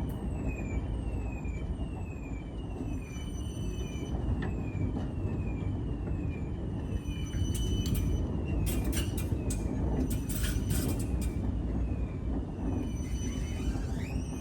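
PKTS 71-931M Vityaz-M tram running, heard from inside: a steady low rumble of the car on the rails, with a short falling electronic chirp repeating about once a second. A cluster of sharp clicks and squeaks comes in the middle.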